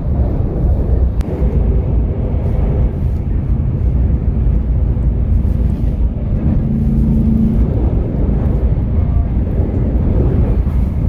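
Steady low rumble of a Shinkansen train running, heard from inside the passenger cabin, with a brief hum rising above it about six and a half seconds in.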